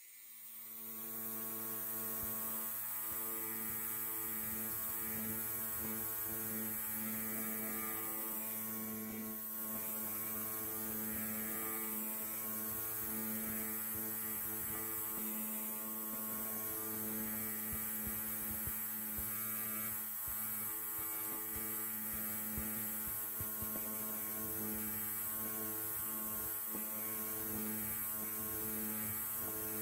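Electric hair clipper buzzing steadily. It swells to full strength in about the first second, then holds an even, unchanging hum.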